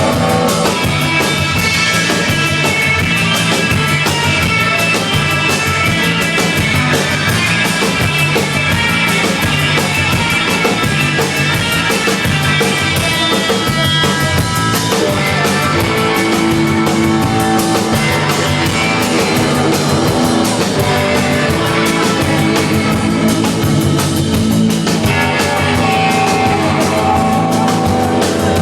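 A rock band playing loud live music with a drum kit and guitars; the part changes about halfway through.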